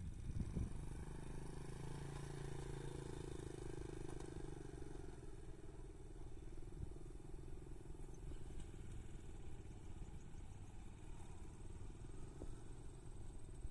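Jet airliner engines running with a steady low rumble and hum, the hum fading after about five seconds.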